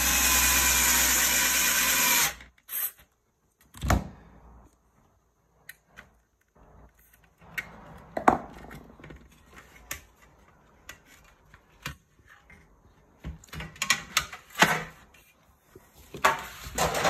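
A cordless drill or electric screwdriver runs steadily for about two seconds, driving a screw into the roof basket's frame joint, then stops abruptly. Scattered knocks and clicks of the metal bars and plastic parts being handled follow, gathering near the end.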